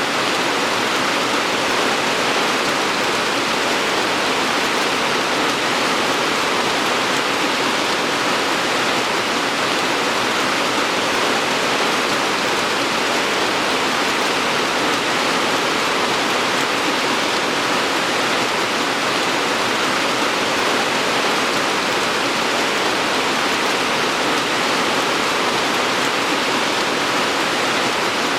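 Steady heavy rain, an even hiss of falling water with no distinct drops or changes.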